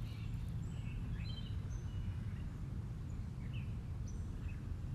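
Birds calling with scattered short chirps and whistles, over a steady low rumble of outdoor background noise.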